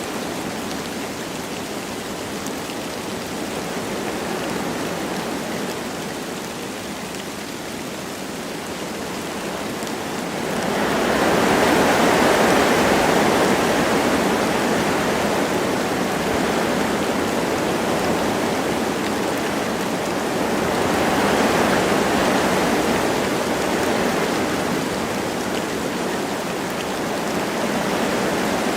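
Wind rushing through forest trees with light rain falling, a steady noise that swells in a strong gust about ten seconds in and again about twenty seconds in.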